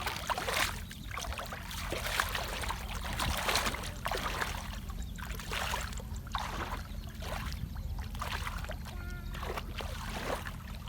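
River water sloshing and splashing in irregular swishes, about one or two a second, as a person wades and gropes along the riverbed by hand, over a steady low rumble.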